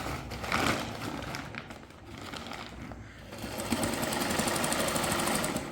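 Old sewing machine stitching in short runs, then a longer steady run starting about three seconds in.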